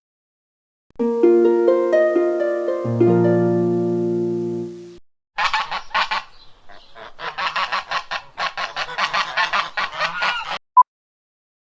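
A short run of plucked, harp-like notes, then about five seconds of a bird's harsh, rapidly repeated calls, ending with a short beep.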